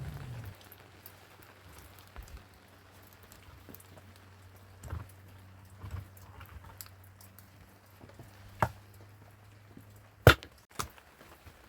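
A few separate sharp knocks and clicks, the loudest near the end, over a faint steady low hum.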